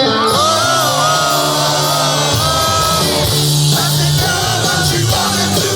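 Rock band playing live, with a voice singing the melody over guitars and drums.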